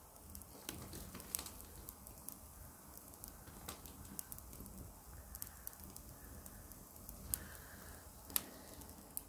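Wood fire crackling in a fireplace: faint, irregular sharp pops and clicks over a low hiss, with a few louder pops near the end.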